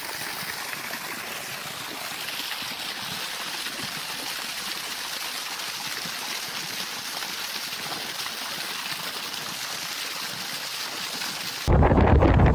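Water spraying and gushing up out of waterlogged ground around a tree, a steady hiss. Near the end it cuts abruptly to loud wind buffeting the microphone.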